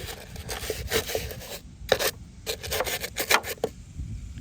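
A brush scrubbing inside a window air conditioner unit, in quick, uneven rubbing strokes.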